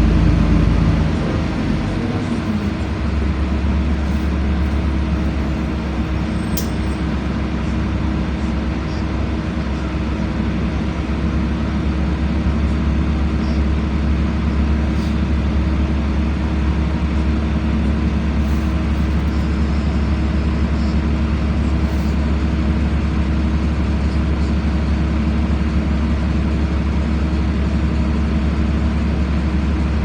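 LiAZ-5292 city bus heard from inside the passenger cabin, its engine and drivetrain giving a steady low hum. The rumble drops a little about a second in, then holds even, with a few faint clicks and rattles.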